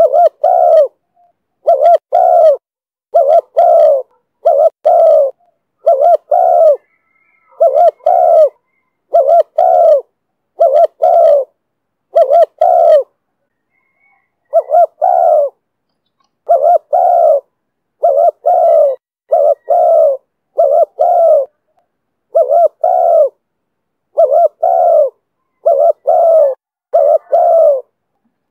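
Spotted dove (chim cu gáy) giving the rapid 'thúc' challenge cooing of a wild-caught bird in the deep 'thổ' voice: short, loud coos repeated over and over, often in close pairs, with a brief pause about halfway through.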